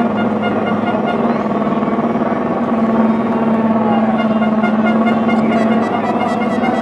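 Drag racing cars' engines running at the starting line, a loud steady engine note held at one pitch without revving up or down.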